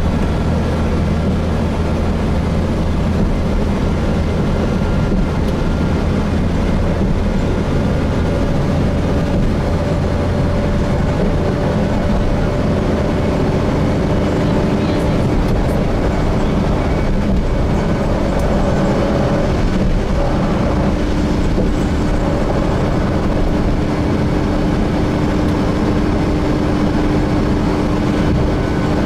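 Gillig Phantom transit bus with a Voith transmission heard from inside the cabin while driving along steadily: a continuous low engine drone under road and tyre noise. A faint steady whine comes up from about halfway through.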